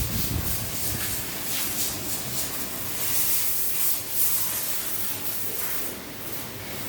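Spray gun hissing, the spray swelling and easing unevenly.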